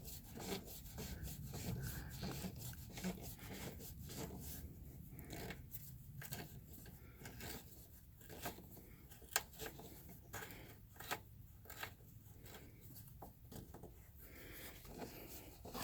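Faint rubbing and scattered small clicks of hands handling a truck air line and its threaded fitting.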